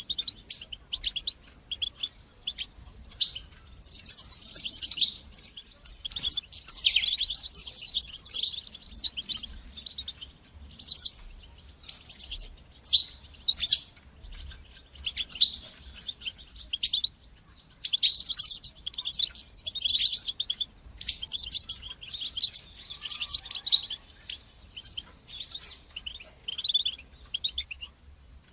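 European goldfinch singing: bursts of rapid, high twittering phrases a second or two long, with short pauses between them.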